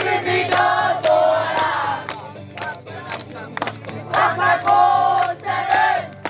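A group singing a campfire song loudly together, half singing and half shouting, in two phrases with a quieter gap between them, over a steady beat.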